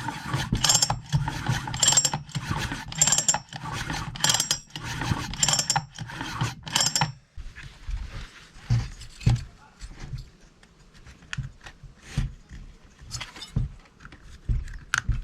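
Six mechanical strokes about a second apart, each a short rasping whir, stopping about seven seconds in; scattered light knocks and clicks follow.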